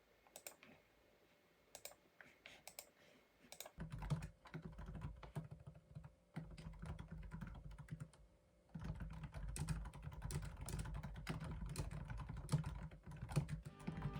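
Typing on a computer keyboard: a few scattered key clicks at first, then quick, continuous typing from about four seconds in, with a brief pause in the middle.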